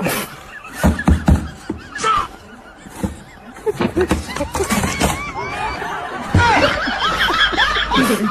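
High-pitched snickering laughter in quick, warbling runs, with a few thumps about a second in.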